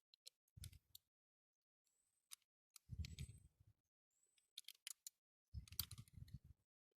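Faint clicks and light knocks of small die-cast toy car parts being handled and fitted together, in three short clusters: about half a second in, around three seconds in, and near the end.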